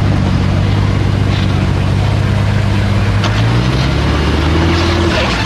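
Jeep Cherokee's engine running steadily at low revs as it crawls over creek-bed boulders, its pitch dipping slightly about three and a half seconds in.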